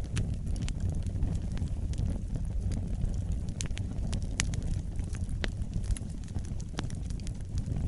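Wood fire burning in a fireplace: a steady low rumble of flames with irregular crackles and sharp pops from the burning logs.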